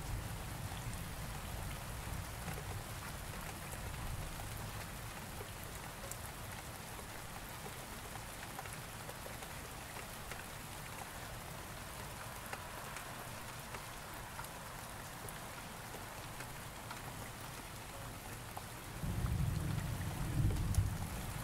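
Steady rain falling, with scattered drop patters. A low thunder rumble fades out over the first few seconds, and another rumble rolls in near the end, louder.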